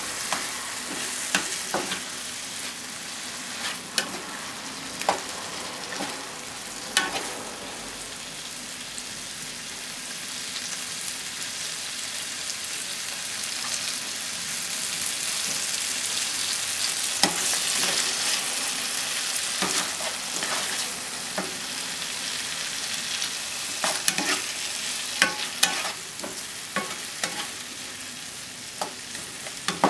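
Tomato chunks sizzling as they fry in butter in a nonstick frying pan, with scattered clicks and scrapes of a plastic spatula stirring and turning them. The sizzle swells in the middle, and the spatula strokes come thicker near the end.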